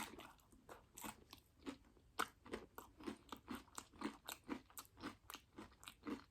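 Close-up chewing of crunchy Doritos tortilla chips loaded with nacho toppings: steady, rapid crunches, about four a second.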